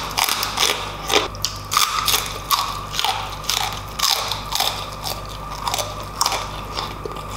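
Close-miked chewing and biting of crispy fried pork belly (lechon kawali), with crunches and wet mouth smacks about twice a second.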